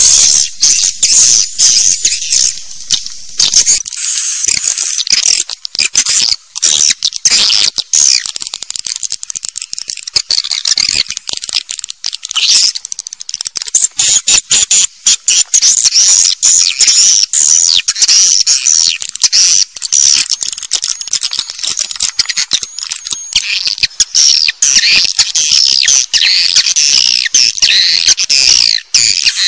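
Edible-nest swiftlets twittering continuously: a dense chorus of rapid, overlapping high chirps with clicks. This is the kind of swiftlet call recording played to draw swiftlets into nesting houses.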